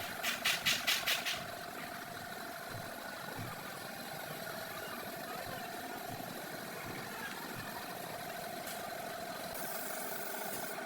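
A quick run of about six sharp, high-pitched bursts in the first second, then a steady mechanical hum with a constant mid-pitched tone.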